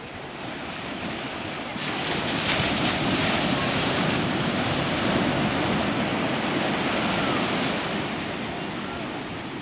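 Ocean surf: a wave breaks about two seconds in, and its rush of foaming water stays loud for several seconds before slowly washing out.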